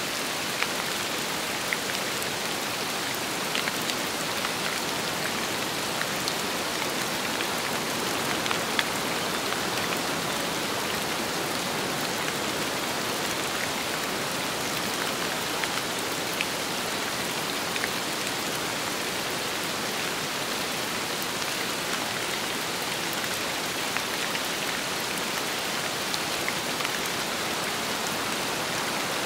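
Steady rain falling with wind, an even hiss throughout, with scattered single drops ticking sharper than the rest.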